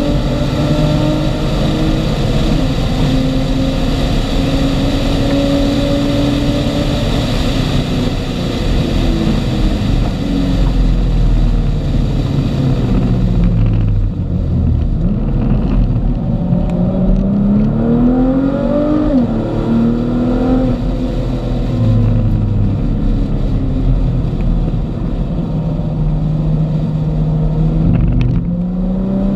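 Car engine heard from inside the cabin at track pace: held at high revs with loud wind rush along a straight, then falling in pitch in steps as the car brakes and downshifts about halfway through. It then revs up again out of the corner, with a sudden drop at a quick upshift, and climbs once more near the end.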